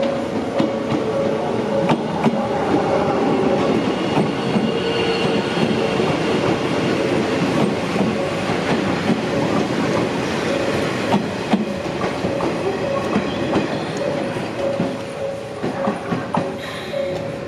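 Steady rolling mechanical noise with a constant hum and scattered clicks and knocks.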